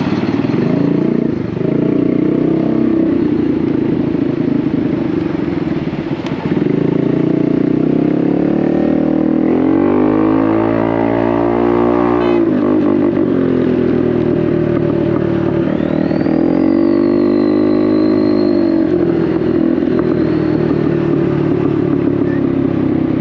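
Honda Navi's single-cylinder scooter engine running through a Vance & Hines aftermarket exhaust while riding. The engine pitch climbs twice under throttle, dropping off suddenly in between, with a thin high whine rising and then holding near the end.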